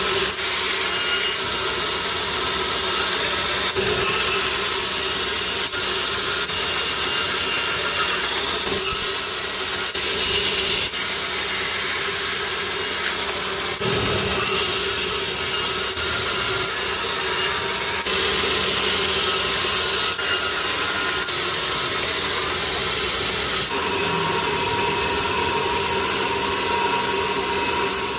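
Sawmill blade cutting through a large log: a loud, steady saw-in-wood sound with a high whine running through it, changing abruptly every few seconds.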